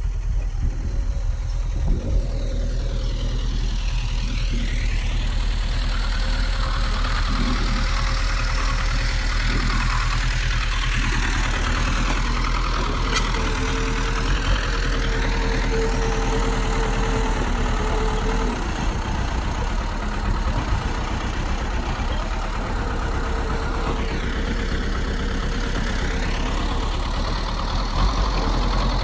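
Bulldozer's diesel engine running steadily, with a higher whine that falls and rises in pitch a few times.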